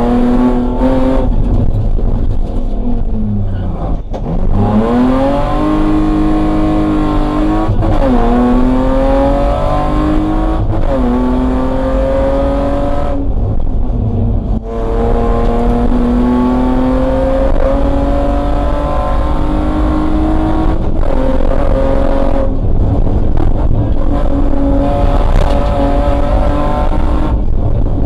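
BMW E30 320 rally car's engine, heard from inside the cabin, pulling hard and rising in pitch, with the note dropping sharply several times as the driver changes gear or lifts.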